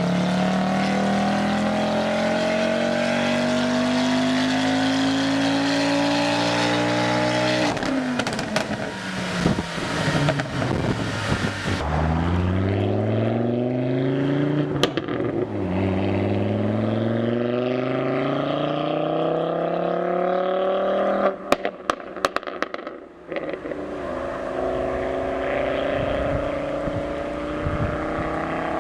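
Ford Focus RS engine pulling under full load on a chassis dyno, its pitch climbing steadily through the revs for several seconds. It then lifts off with exhaust pops and crackles and revs up again twice with a drop in pitch between, with a burst of sharp exhaust bangs a little past two-thirds of the way through before a last rise.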